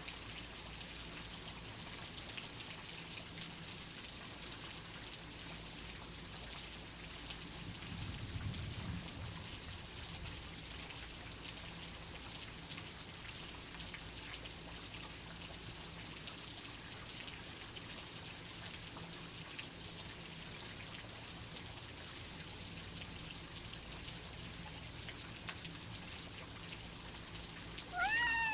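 Steady rain falling, with a soft low rumble of thunder about a third of the way through. Right at the end a cat gives one short meow that rises and then falls.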